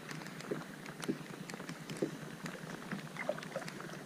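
Light rain pattering on a plastic sit-on-top kayak and on the water as many scattered small ticks over a steady hiss. Soft splashes and drips come from the kayak being paddled.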